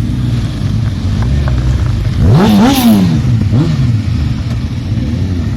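Motorcycle engine idling, with one sharp throttle rev about two seconds in that climbs and drops straight back, then a smaller blip a second later.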